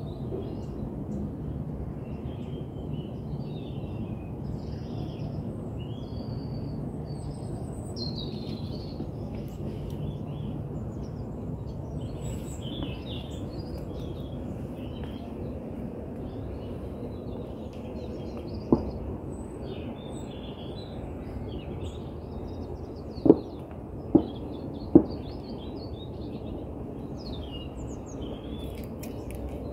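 Small birds chirping and calling over a steady low background hiss. Four sharp knocks come in the last third, one on its own and then three in close succession.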